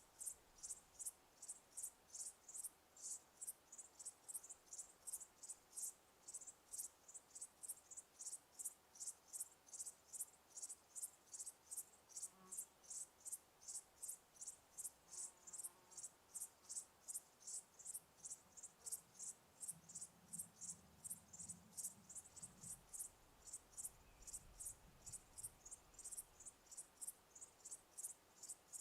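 A cricket chirping in a steady, even rhythm, about two to three short high chirps a second.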